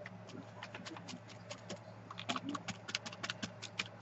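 Rapid, irregular light clicks and taps that come faster and louder about two seconds in, over a steady low hum.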